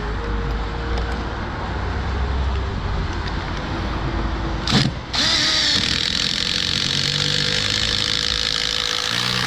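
A steady low rumble, then from about five seconds in a power tool running continuously with a bright, even whine-and-hiss.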